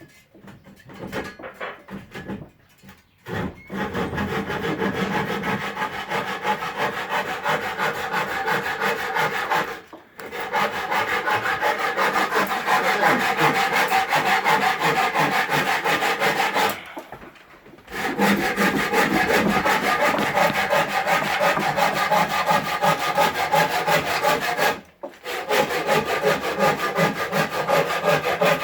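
Wood being sawn, a continuous fast rasping cut in long runs that breaks off briefly three times: about ten, seventeen and twenty-five seconds in.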